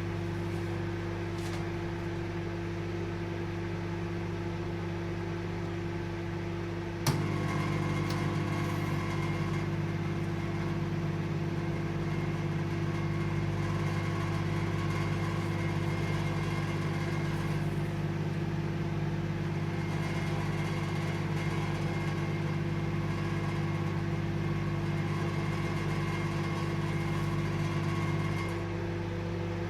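Microwave oven running with a steady hum. About seven seconds in a click sounds and a louder buzz joins the hum, holding until near the end, when it drops back to the plain hum: the magnetron switching on and off as the oven cycles its power.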